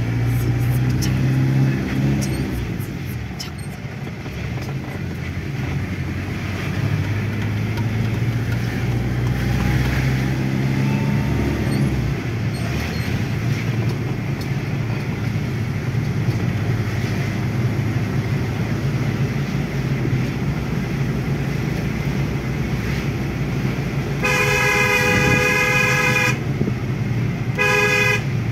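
Mahindra Bolero's diesel engine running inside the cabin while driving downhill, its pitch rising and falling a couple of times. Near the end a vehicle horn sounds twice: one long blast of about two seconds, then a short one.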